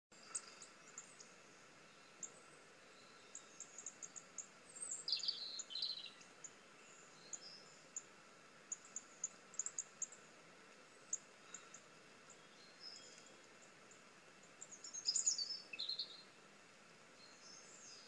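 Recorded songbirds chirping from a bird video playing on a laptop: many short high chirps, with busier bursts of calling about five seconds in and again about fifteen seconds in, over a faint steady hiss.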